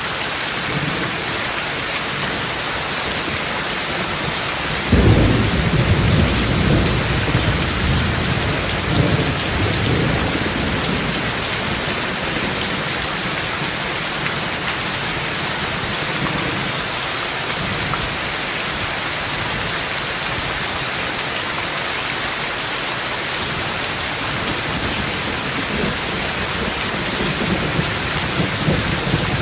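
Heavy rain falling steadily, with a sudden crack of thunder about five seconds in that rolls on in rumbles for several seconds, and another rumble of thunder building near the end.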